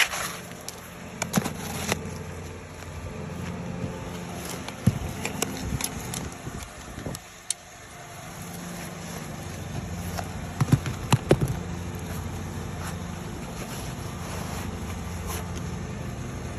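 Scattered sharp clicks and scrapes of a scraping tool prying at thin roof shingles and nails, over a steady motor hum that fades briefly about halfway through and comes back.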